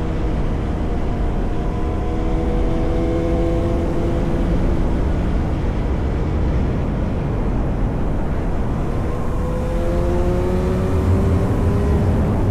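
Yamaha R1 sport bike with an SC-Project exhaust riding at a steady cruise, its engine running under a heavy rumble of road and wind noise. The engine note sinks slightly through the middle, then climbs again in the last few seconds as the bike picks up revs.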